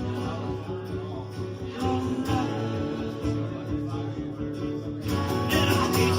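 Acoustic guitar playing, with a passage between sung lines that grows louder about five seconds in.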